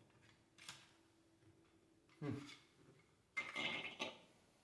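Hard plastic toy playset pieces being handled and fitted together: a light click, then a knock, then a louder rattling scrape near the end.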